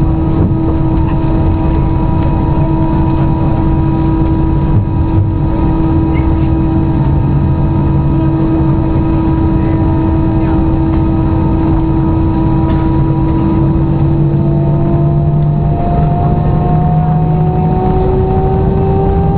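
Airbus A320 jet engines heard from inside the cabin: a steady whine over a low rumble, with the whine starting to rise in pitch about fifteen seconds in as the engines spool up for takeoff.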